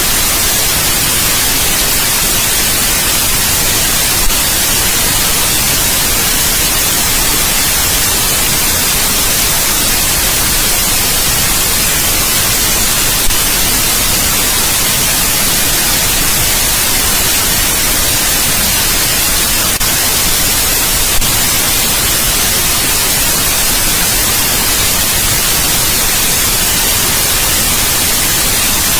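Steady white noise: an even, unbroken hiss, with a few tiny clicks.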